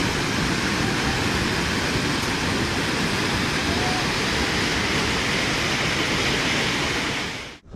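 Floodwater of an overflowing river rushing past in a steady, dense roar of water noise, cutting off suddenly near the end.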